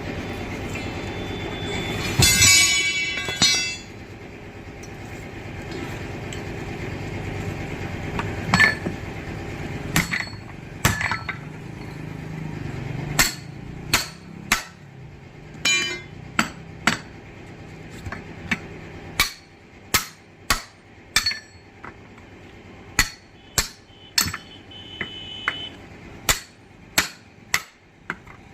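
Hammer blows on a 10.00-20 truck tyre and its steel rim as the tyre is taken off. The sharp metallic strikes come irregularly at first, then roughly once a second, after a loud clattering burst about two seconds in. A low steady hum fades out about two-thirds of the way through.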